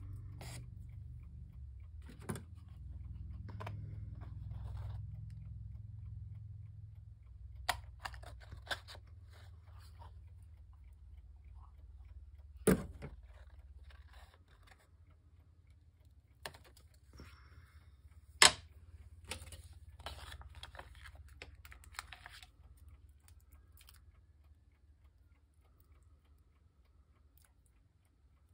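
Handling of paper and small craft tools on a tabletop: scattered light rustles and taps, with two sharp clicks, one about halfway through and another about six seconds later, over a low hum that fades after the first several seconds.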